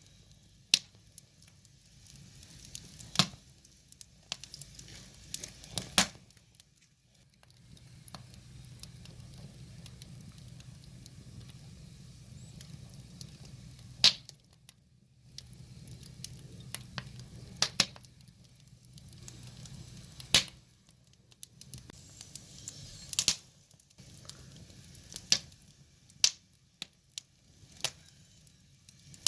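Burning firewood logs crackling, with about a dozen sharp pops scattered irregularly over a low, steady flame rush.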